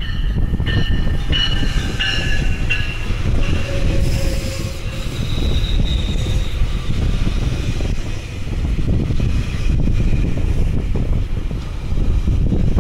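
GO Transit bilevel commuter train, cab car leading, rolling past close by: a steady low rumble of wheels on rail, with a ringing repeated about every 0.7 s over the first three seconds and a high squeal from the wheels a few seconds in.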